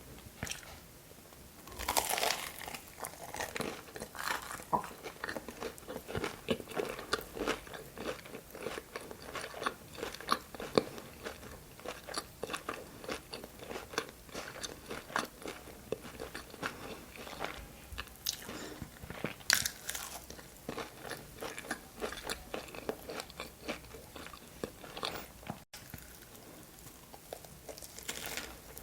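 Close-miked eating of crunchy food: crisp bites followed by steady wet chewing and crunching. There are loud bites about two seconds in and again after about twenty seconds.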